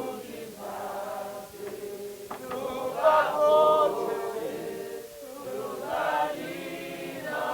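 Many voices of a church congregation praying aloud together, overlapping in a sustained, chant-like sound that swells and eases several times.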